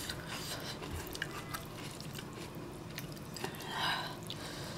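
Close-miked chewing of ramen noodles, with small clicks of wooden chopsticks against a stainless steel bowl as the noodles are stirred, and a brief breathy noise near the end.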